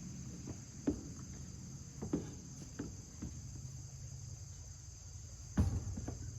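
Crickets chirring steadily, with a handful of short knocks and clunks, the loudest about five and a half seconds in.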